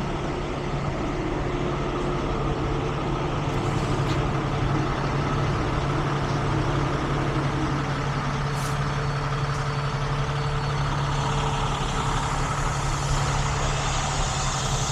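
Heavy truck engine running steadily with a constant low hum, and a brief click about two-thirds of the way in.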